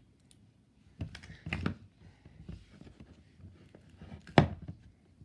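Slime being squished and pulled in the hands, giving a few sharp clicking pops, the loudest about four and a half seconds in, with soft crackling between.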